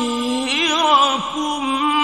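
A man reciting the Quran in the melodic, drawn-out mujawwad style: one voice holds long ornamented notes with a wavering pitch, breaking off briefly about halfway before taking up the next phrase.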